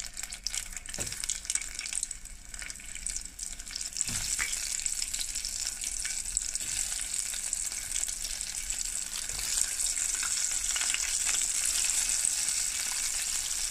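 Flour- and cornstarch-coated chicken feet deep-frying in hot oil: a dense sizzle full of small crackles. It gets steadier and a little louder about four seconds in.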